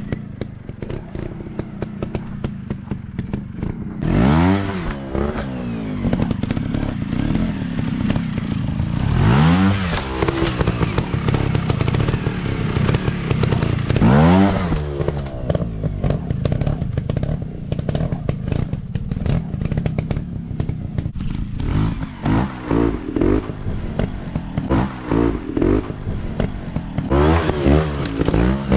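Dirt bike engines revving in bursts, each rising then falling in pitch, three long revs spaced about five seconds apart, then several quicker throttle blips near the end, with a steady scatter of knocks and rattles throughout.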